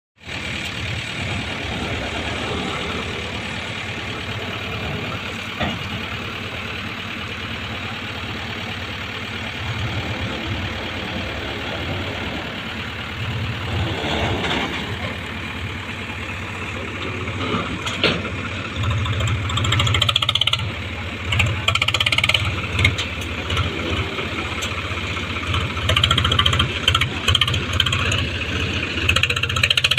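Diesel engine of a backhoe loader or tractor running steadily, then revving up and down repeatedly over the last third.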